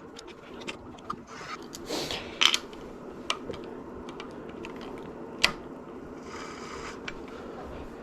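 Scattered metal clicks, taps and short scrapes as a positive stop (an overlong spark plug) is threaded into the engine's spark plug hole by hand. One sharper knock comes about five and a half seconds in, over a steady background hum.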